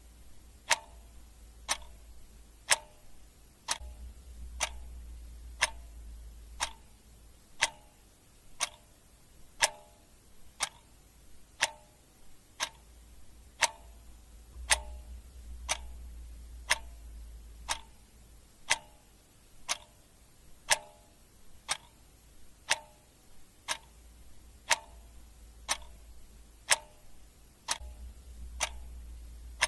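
Clock ticking steadily, about one tick a second, in a sharp tick-tock, with a low rumble coming and going underneath.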